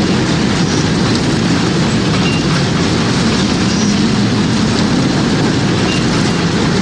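Tornado wind: a loud, steady, low rumbling like a passing freight train, with no pause or change.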